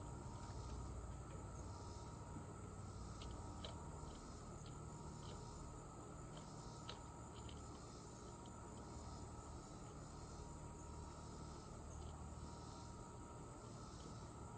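Faint outdoor insect chorus: one steady, high-pitched trill that never breaks, with a few faint short chirps scattered through it over a low rumble.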